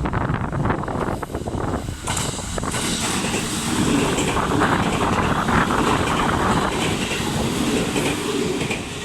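A train running past on the track, its wheel and rail noise building about two seconds in and holding steady.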